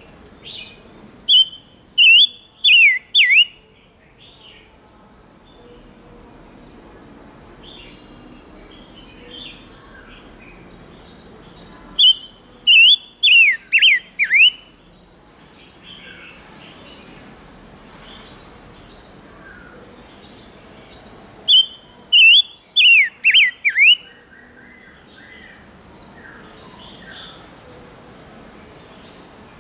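Chim ngũ sắc songbird singing as a lure call: three phrases about ten seconds apart, each a quick run of about five clear whistled notes that sweep downward, with soft chattering calls between the phrases.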